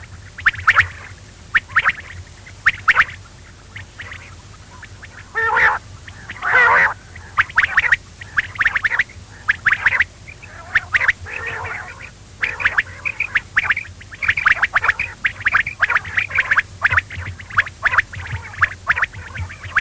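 Quail calling over and over in short, sharp notes in quick groups, with two longer wavering calls about six seconds in. A steady low hum runs underneath.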